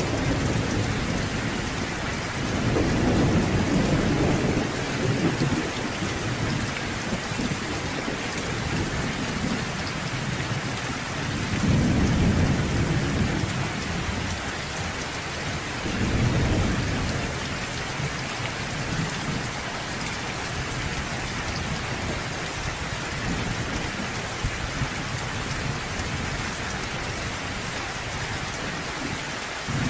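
Steady rain falling in a thunderstorm, with low thunder rumbling three times: a long roll a few seconds in, a stronger one near the middle and a shorter one soon after.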